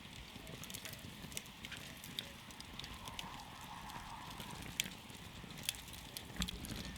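Wood campfire crackling: irregular sharp pops and snaps over a steady low rumble of the burning flames.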